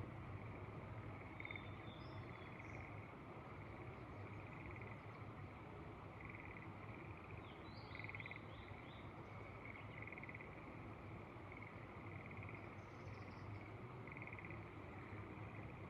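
Frogs calling in short pulsed trills, one after another every second or two. Occasional higher bird chirps sound over them, including a quick falling series of notes about halfway through. Beneath it all is a faint steady low rush of wind.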